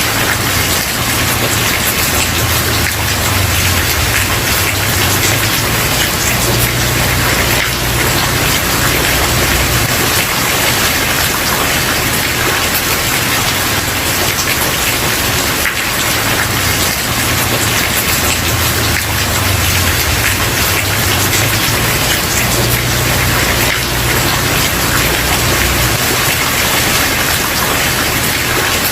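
Steady rain falling on a wooden porch, an even hiss with a low rumble underneath that swells and fades.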